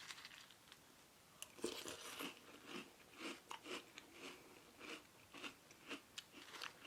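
A person chewing a mouthful of crunchy sugar cookie cereal with marshmallows in almond milk: faint, soft crunches about two to three a second, starting about a second and a half in.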